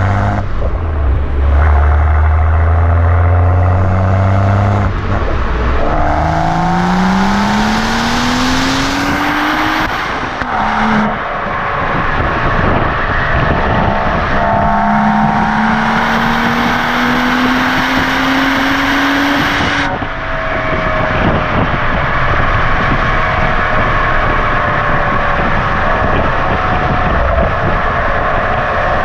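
BMW M135i's exhaust with the M Performance rear silencer, valves open, in Sport+ mode. It starts with a low steady drone, then the engine note rises in pitch through two long pulls under acceleration, about six and fourteen seconds in, with a brief drop between them near ten seconds. After about twenty seconds the note falls away into steadier, noisier running.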